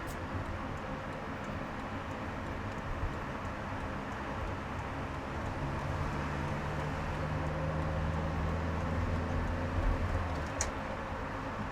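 Car driving in traffic: steady engine and road noise, with a low hum that swells for a few seconds mid-way and a single sharp click near the end.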